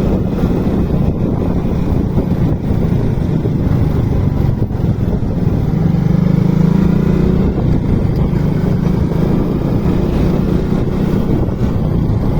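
Motorcycle running while being ridden, with heavy wind rumble on the microphone; the engine note swells for a moment about six seconds in.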